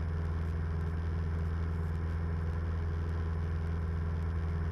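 1976 Cessna 172M's four-cylinder Lycoming engine and propeller droning steadily in flight, heard from inside the cabin.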